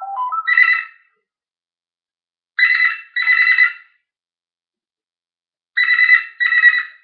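A parrot mimicking a telephone's double ring: a brief ring near the start, then two 'brr-brr' pairs about three seconds apart.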